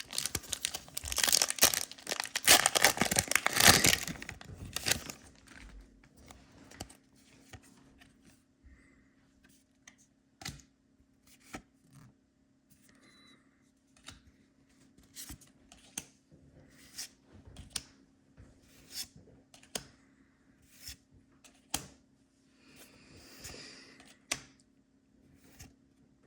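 A foil Pokémon booster pack being torn open and crinkled for about five seconds, then a run of light, sharp clicks about once a second as the cards are handled.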